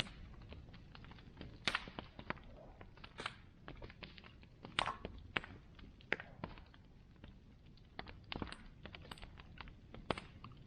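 Bonfire crackling: irregular sharp pops and snaps of burning wood, a few louder ones standing out, over a steady low rumble of the flames.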